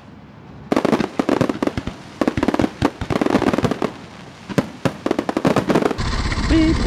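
Fireworks going off: a rapid string of sharp bangs and crackles from aerial bursts, with a couple of short lulls. About six seconds in the sound cuts abruptly to a motorcycle's engine and road noise.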